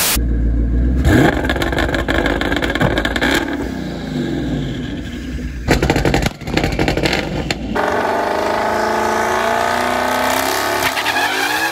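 Twin-turbo 5.0 Coyote V8 of a Ford Mustang GT on the two-step launch limiter, rapid pops and crackles from the exhaust, then a steady high engine note held for the last few seconds.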